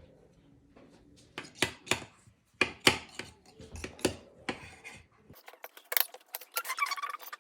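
Kitchen utensils clinking and tapping against dishes: a run of irregular sharp clicks and knocks, with a short squeaky scrape near the end.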